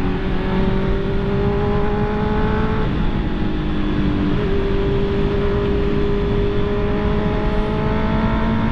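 Honda CB650R's inline-four engine pulling under way over a steady rush of wind and road noise, its pitch climbing slowly, dropping abruptly about three seconds in and jumping back up a second and a half later as the revs change with the gears.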